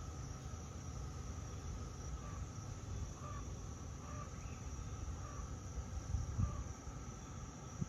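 Steady, high-pitched insect chorus, cricket-like, over a low rumble, with faint short chirps repeating about once a second.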